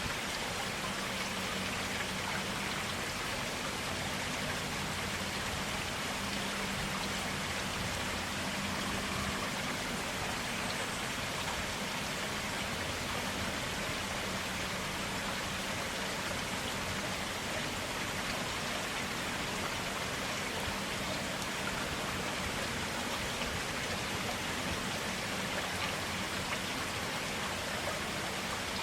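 Clear water of a forest stream running steadily, an even rushing and splashing without break.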